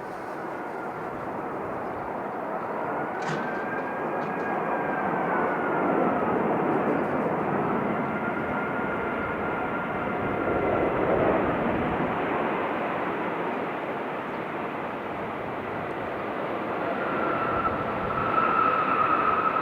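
Jet airliner engines running: a steady rush with a faint whine that bends slowly up and down in pitch, the whine growing stronger near the end.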